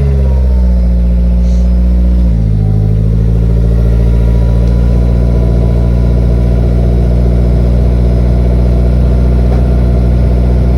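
Honda S2000 four-cylinder engine with an aftermarket cat-back exhaust and test pipe, idling loudly just after start-up; the high start-up idle drops to a lower, steady idle about two seconds in.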